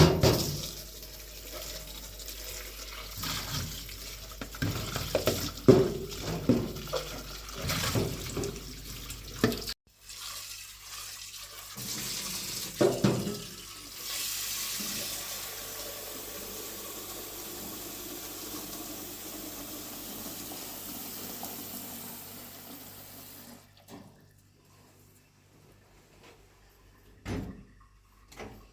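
Water being poured and splashed, with irregular knocks and clatter over the first ten seconds. It then becomes a steady stream of running water from about 14 seconds in, which stops about 23 seconds in.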